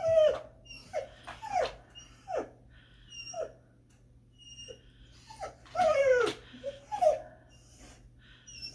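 A dog whining and whimpering in a series of short, high, falling cries, with a louder run of longer whines about six seconds in: excited whining at its owner coming home.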